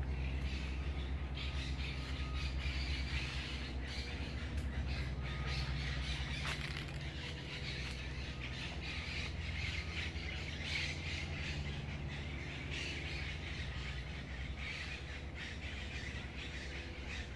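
Birds calling over a steady low hum.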